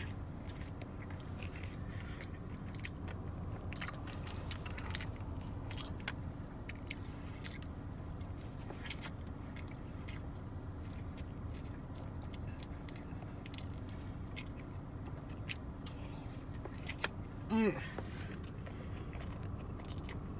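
A person chewing and biting a burger stacked with crunchy fried chicken nuggets, with scattered wet clicks and crunches over a steady low hum of the car cabin. About seventeen seconds in there is one short vocal sound that falls in pitch.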